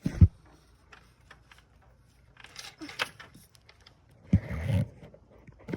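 Metal hand tools clinking and knocking on engine parts during belt and fan reassembly, with a sharp knock right at the start, scattered clicks and rattles, and a louder, heavier bump about four and a half seconds in.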